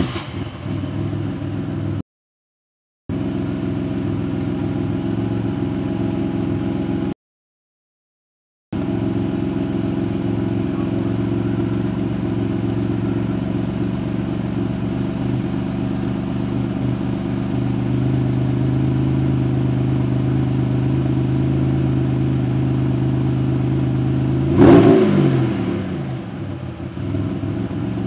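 GM 3800 V6 idling steadily at a raised idle, running an L67 timing table with its exhaust leaks fixed. Near the end the engine is revved once, quickly, and falls back to idle. The sound cuts out completely twice early on, for a second or two each.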